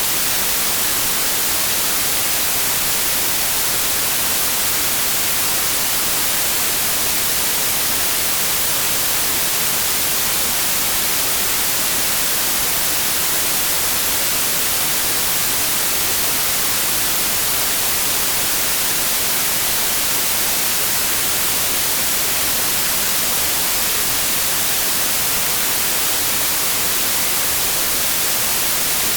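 Synthetic white noise: a steady, even hiss with the most energy in the highest frequencies, unchanging throughout.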